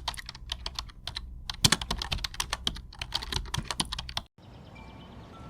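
Fast, irregular keyboard typing clicks that stop abruptly about four seconds in, leaving a faint hiss.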